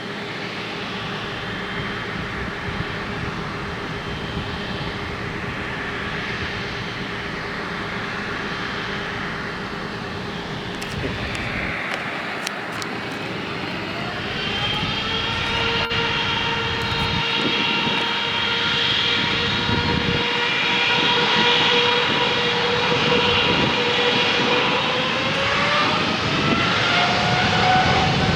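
Boeing 777-300 jet engines running and slowly growing louder. A high whine comes in about halfway and climbs in pitch near the end as the engines spool up.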